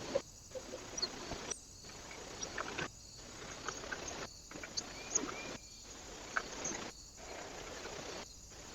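Trail-camera audio at a bird feeder: a steady hiss broken by brief silences every second or so where short clips are joined. Through it come scattered light clicks and a few short high chirps from birds at the feeder.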